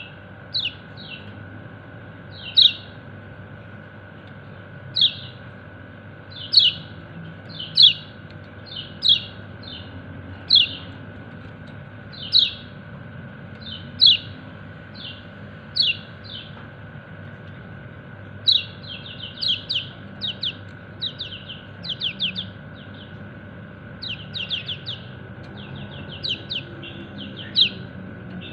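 Kecial kuning white-eye (pleci) giving short, sharp 'ciak' contact calls to call its companions. The notes come singly every second or two, then from about two-thirds of the way through in quicker runs of several notes. A faint steady hum lies underneath.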